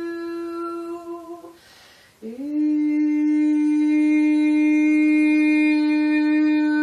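A woman's voice singing long, steady wordless tones. One held note ends about a second and a half in, a breath is drawn, and a lower note slides up into place and is held.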